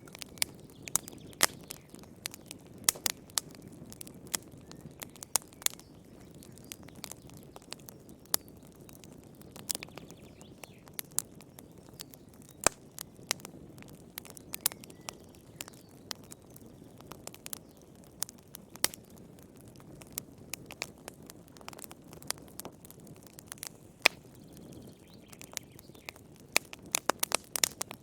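Wood fire crackling in a fireplace: irregular sharp pops and snaps over a soft low hiss, with a quick run of pops near the end.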